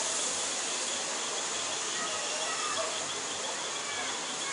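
Steady hiss of heavy storm rain pouring down.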